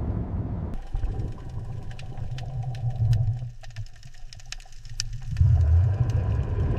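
Low mechanical rumble with many sharp, irregular clicks and a faint steady hum over it. It starts abruptly under a breathy, rushing noise about three-quarters of a second in.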